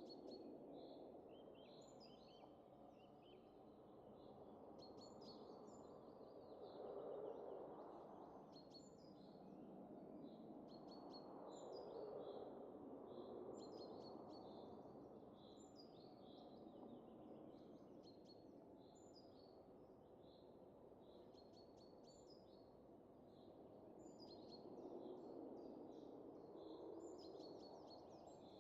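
Faint wind rising and falling in slow, gentle gusts, with small birds chirping busily over it.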